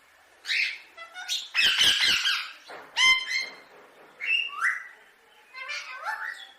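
Indian ringneck parakeet squawking and chattering: a run of short harsh calls and chirps, with a few rising whistles towards the end.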